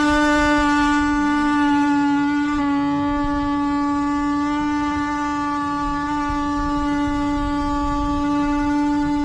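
Power tool running at a steady speed with an even buzzing tone, cutting a hole in sheet-metal ductwork.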